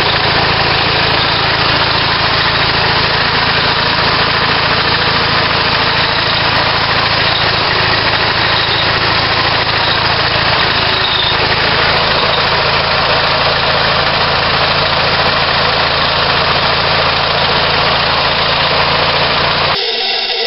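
Four-cylinder Bauer compressor, adapted for natural gas, running steadily under load with a constant machine hum and hiss. Near the very end the low hum cuts off abruptly and a thinner, slightly quieter sound remains.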